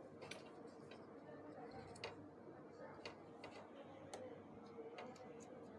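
Faint, irregular light clicks and ticks of plastic parts and a ribbon cable being handled inside a copier's document feeder, about six in all, over a low steady hum.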